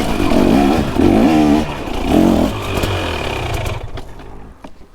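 Dirt bike engine revving hard in repeated surges, the pitch climbing and falling about three times, then dropping off near the end as the throttle is closed.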